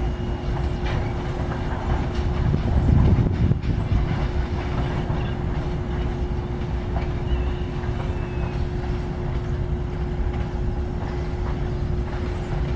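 Loaded freight train rolling past at close range: a steady rumble, loudest about three seconds in, with a steady hum throughout.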